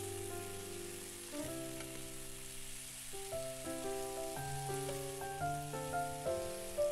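Sliced potatoes sizzling as they stir-fry in oil in a frying pan while being turned with a wooden spatula. Background music of clear melodic notes plays over the sizzle.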